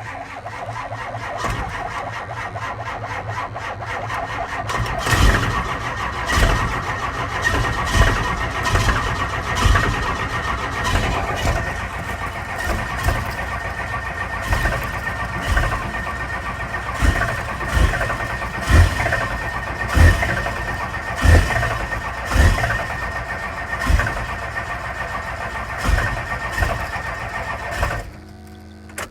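5.9 12-valve Cummins inline-six diesel being cranked on a cold start: the starter turns it steadily with a high whine, and from about five seconds in single cylinders fire in loud thumps about once a second without the engine catching. The cranking stops suddenly near the end.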